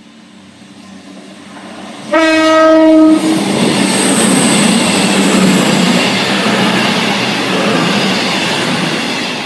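CrossCountry Voyager diesel multiple unit running through the station at speed. Its approach swells over the first two seconds, then a massive blast on its horn, one steady note about a second long, is the loudest moment. The loud rushing noise of the train passing close by follows and slowly eases near the end.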